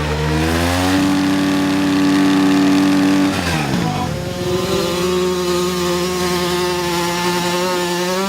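Dirt bike engine at high revs: the pitch climbs over the first second and holds, drops sharply about three and a half seconds in, then holds steady again.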